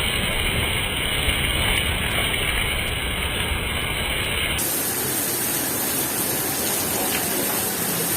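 Heavy rain pouring down in a steady, loud rush. About four and a half seconds in the sound changes abruptly, as at a cut between two recordings of the downpour.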